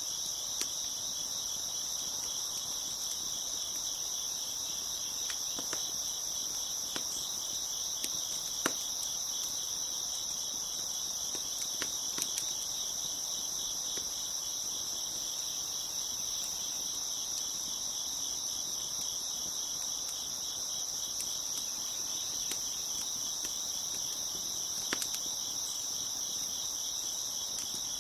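Crickets chirping in a continuous chorus, with a few sharp crackles and pops from a wood fire scattered through it, the loudest about nine seconds in.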